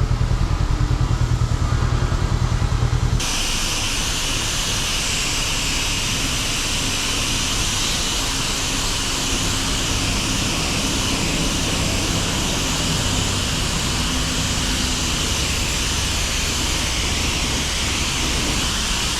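Honda CB500X parallel-twin engine idling with an even low pulse, which stops abruptly about three seconds in. A steady hiss follows.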